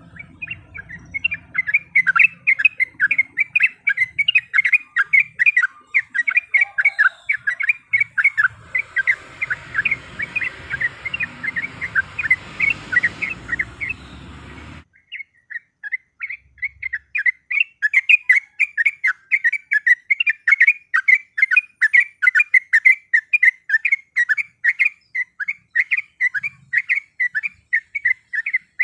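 Sooty-headed bulbul (trucuk) singing a long, fast run of short repeated chattering notes, several a second. The song breaks off for about a second midway, where the background hiss cuts out, then resumes just as fast.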